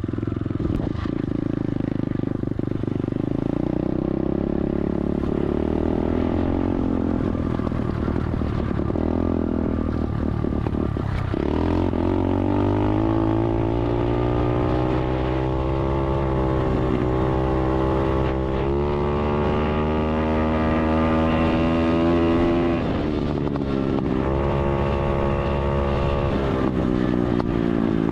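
SSR 125 automatic dirt bike's single-cylinder four-stroke engine running under way on a ride. Its pitch climbs about a third of the way in, then dips briefly three times as the throttle is eased and picks up again.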